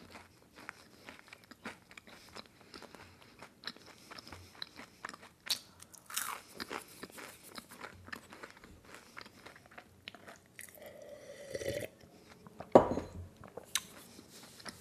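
Close-up crunching and chewing of a crisp churro, many small crunches in a row. A single sharp knock about thirteen seconds in is the loudest sound.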